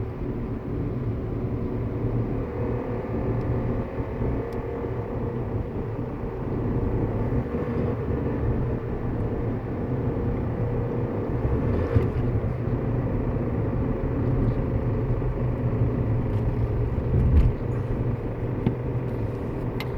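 2012 Hyundai Elantra on the move: a steady low engine and road drone carrying the knocking that rises and falls with engine RPM. A brief low thump comes near the end.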